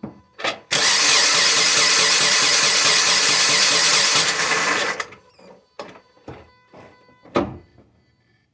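2010 Subaru Forester's flat-four engine being cranked by the starter for about four seconds with a fast, even rhythm. It does not catch: the car cranks but won't start. After the cranking stops there are a few short knocks, one of them loud near the end.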